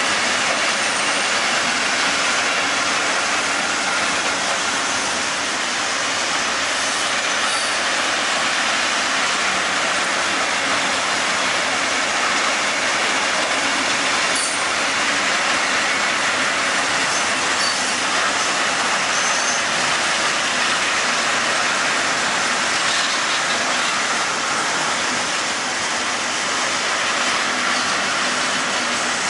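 Freight train of tank wagons rolling past, a steady rush of steel wheels on the rails with a few faint, brief high squeaks. The last wagon goes by near the end.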